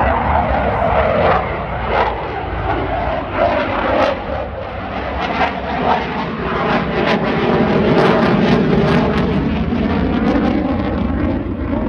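Jet noise from a Dassault Rafale's twin M88 turbofans in flight: a loud, continuous rushing noise with scattered sharp cracks through it, building to its loudest about eight seconds in.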